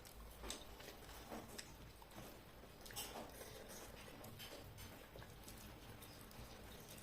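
Faint, irregular small clicks and smacks of eating: chewing and fingers working rice and chicken curry.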